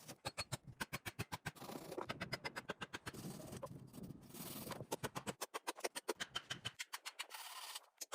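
Rapid, regular knocking, about seven sharp knocks a second, with stretches of scraping hiss in between.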